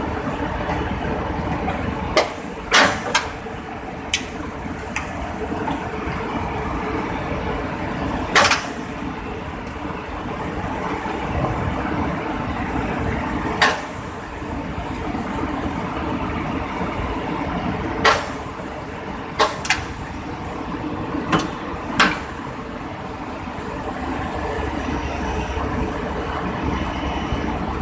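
Excavator's diesel engine running steadily under load, with sharp metallic clanks about a dozen times from the digging and loading work.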